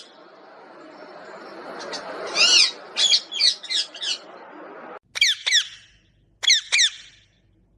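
Pet parrot calling in shrill, sharp squawks: one longer call about two seconds in, a quick run of about five short notes, then two pairs of sharp calls. A background hiss stops abruptly about halfway through.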